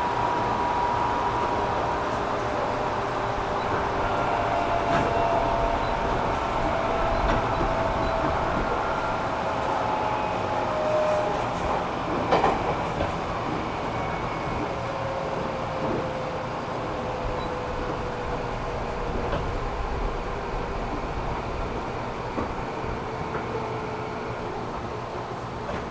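Running sound inside a JR East 205 series electric commuter car: steady rumble of wheels on rail, with thin whining tones that slide slowly lower in pitch and a single sharp knock about twelve seconds in.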